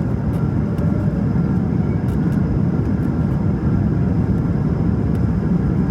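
Steady low rumble of cabin noise inside an Airbus A220-300 in flight, from its Pratt & Whitney PW1500G geared turbofan engines and the air rushing past the fuselage.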